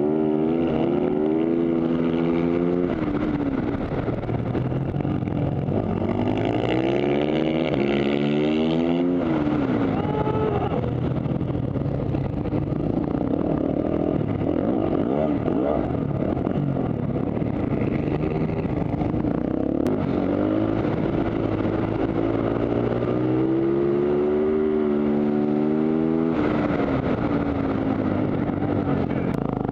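Supermoto race bike's engine heard close up from a camera mounted on the bike, running hard at racing speed and revving up and dropping back in pitch again and again.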